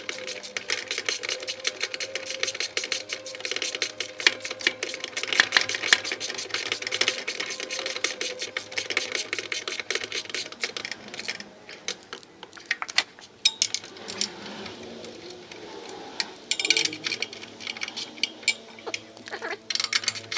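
Ratchet wrench clicking in rapid runs as the engine mounting bolts are turned, pausing for a few seconds past the middle before starting again.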